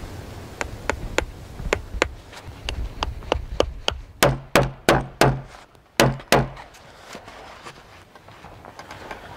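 A hand tool striking wood in a quick run of sharp knocks, about three a second. The knocks grow louder partway through, then stop a little past the middle.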